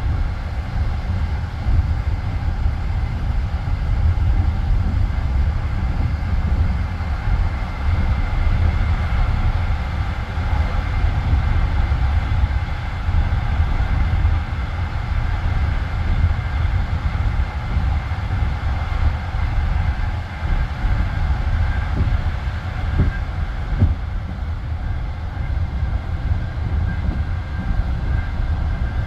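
Passenger train carriage running along the line, heard from inside: a steady low rumble of the wheels on the rails, with a few sharp knocks about 22 to 24 seconds in.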